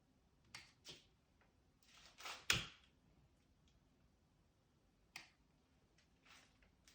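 Firewood and kindling being handled and stacked in a stove: a few scattered light knocks and scrapes, the loudest a scrape ending in a knock about two and a half seconds in.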